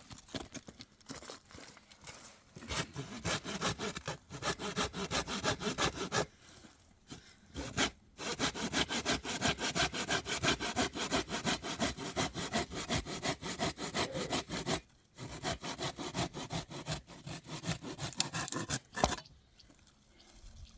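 Hand saw cutting through wood in fast, even back-and-forth strokes, in three runs with short pauses between them.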